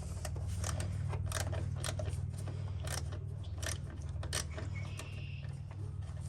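Irregular light clicks and taps of a hand tool and a screw being worked into a fastener hole, over a steady low hum.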